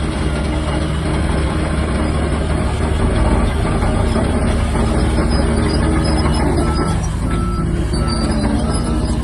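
Shantui DH17-C3 bulldozer's diesel engine running steadily under load while pushing dirt. A run of short, high beeps sounds about two-thirds of the way in.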